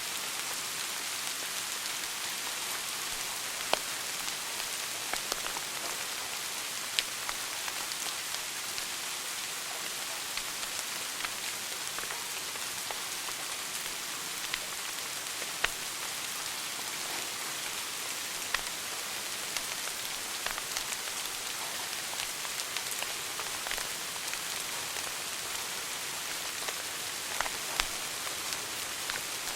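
Wood fire burning in a fireplace: a steady hiss with light crackling throughout and a sharp, louder pop every few seconds.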